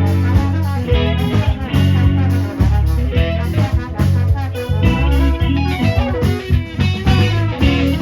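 Live band playing an instrumental passage with guitar to the fore over bass and a steady beat.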